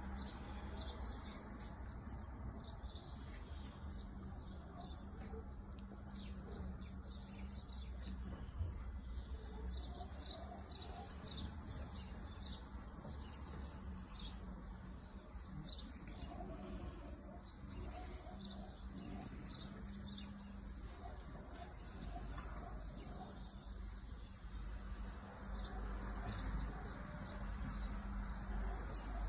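Birds chirping on and off, faint, over a low steady hum.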